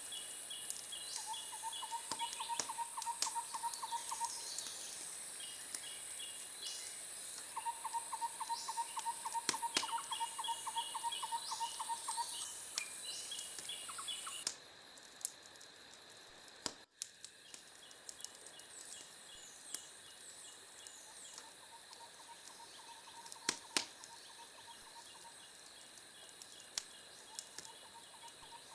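Scattered sharp crackles of a wood fire over a background of insect trills and chirps: short repeated pulsing trills and a high steady buzz. About halfway the buzz cuts off and everything gets quieter, with a brief dropout soon after, while sparser trills and crackles carry on.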